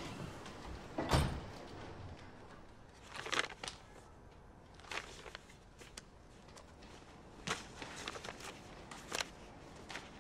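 A single thud about a second in, then sheets of paper rustling and being handled in short, scattered bursts.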